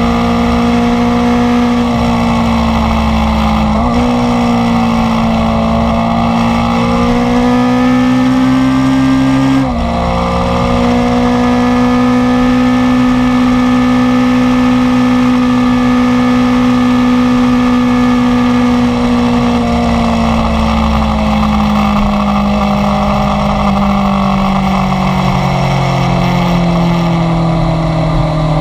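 Inline-four sport motorcycle engine under way at high revs, with the pitch climbing, then dropping sharply near ten seconds in at a gear change. It holds steady, then winds down slowly over the last third as the bike decelerates.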